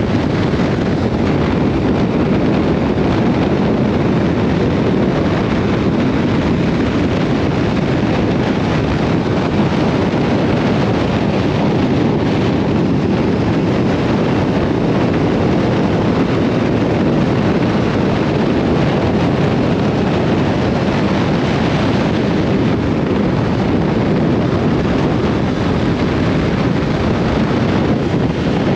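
Steady wind rush on the microphone of a Yamaha R7 motorcycle riding at speed, with the bike's running under it and no change throughout.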